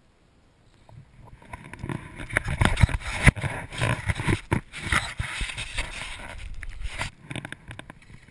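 Loud close rustling and scraping with irregular knocks, typical of movement and handling noise on a body-worn action camera. It starts about a second in and eases off near the end.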